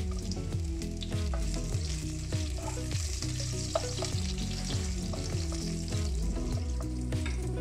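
Sliced garlic and crushed lemongrass sizzling in hot oil in a non-stick wok. A spatula stirs and scrapes through them, adding short clicks over the steady sizzle.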